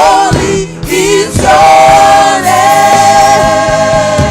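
A gospel choir and worship team singing a praise song with instrumental backing, holding a long sustained note from about a second and a half in.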